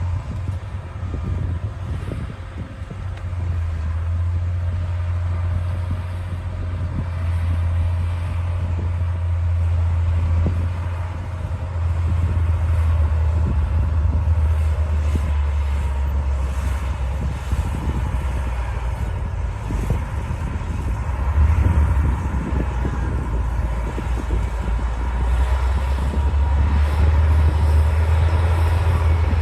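D60 bulldozer's diesel engine running under work, a low steady drone that swells several times, with faint scattered knocks.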